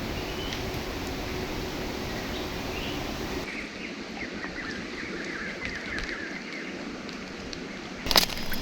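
Steady rush of a shallow river, with short bird chirps through the middle and one sharp knock near the end.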